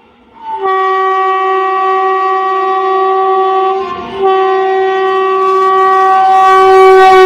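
Freight locomotive's air horn sounding two long, loud, steady blasts: the first for about three seconds, a short break about four seconds in, then a second blast that cuts off abruptly near the end.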